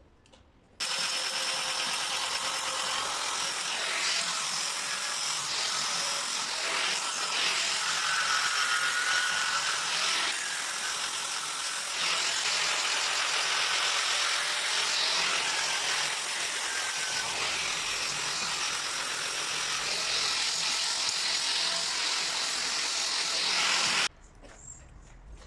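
Steel railway rail being scoured clean by a power cleaning tool: a loud, steady, harsh hiss that starts suddenly about a second in and cuts off suddenly near the end.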